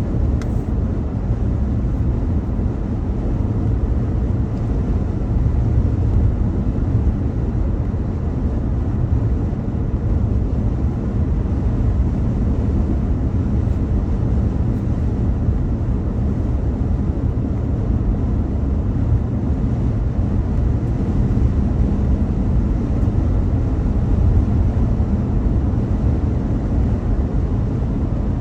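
Car driving along, with a steady low rumble of road and engine noise.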